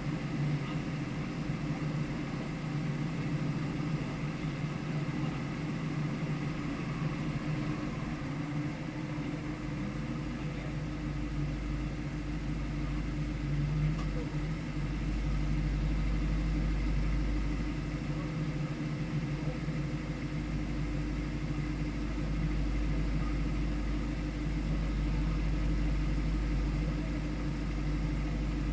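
Car engine running at a steady, unchanging speed, with a deep rumble that grows in about ten seconds in.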